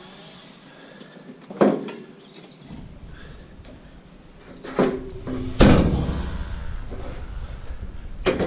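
Heavy scrap metal being handled and set down: a series of knocks and clanks, the loudest about five and a half seconds in, followed by a low rumble.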